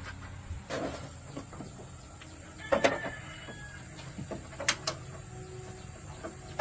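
Metal parts and hand tools clinking and knocking during engine repair work: a few scattered sharp knocks, the loudest about three seconds in with a short metallic ring, over a steady low hum.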